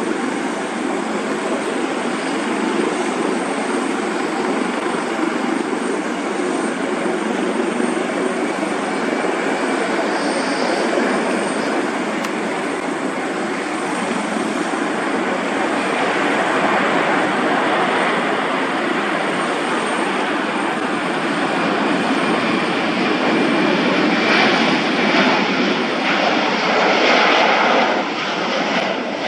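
Twin jet engines of a Royal Australian Air Force Airbus KC-30 tanker (A330 MRTT) running at departure power: a steady, loud rushing noise. It grows louder near the end, then drops off suddenly.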